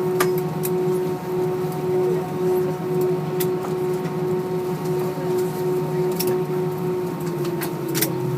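Steady hum of an Airbus A319's cabin systems and air conditioning with the aircraft parked after landing, with a few scattered sharp clicks and knocks in the cabin.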